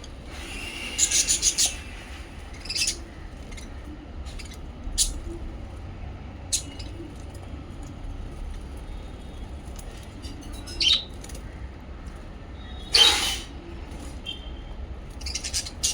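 Small pet parrots chirping in short, sharp calls at irregular intervals, with a quick run of calls about a second in and the loudest call near the end.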